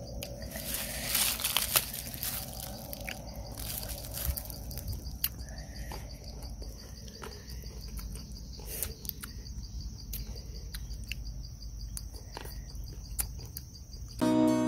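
Biting into and chewing unripe green Burmese grapes, with short crunches and mouth sounds, over a steady pulsing insect trill. Acoustic guitar music comes in near the end.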